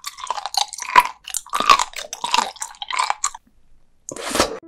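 Close-miked chewing of raw sea cucumber: wet, crunchy bites and chews in quick succession, a short pause, then one more burst of crunching near the end. The flesh is firm and crunchy, so every chew crackles.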